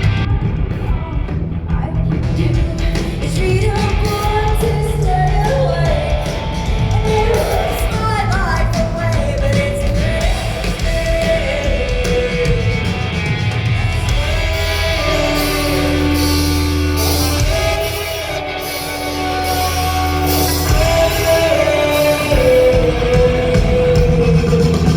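Live rock band playing with a woman singing lead, the melody gliding between notes and holding long notes past the middle, heard with a large hall's echo.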